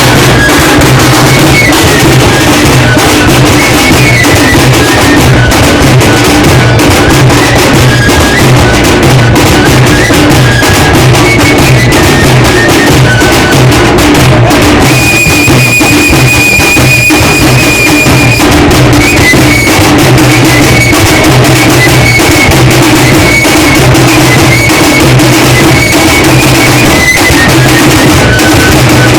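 Very loud drum music: a steady low drumbeat repeating about twice a second, with a high melody line stepping between notes over it and holding one long note for a few seconds past the middle.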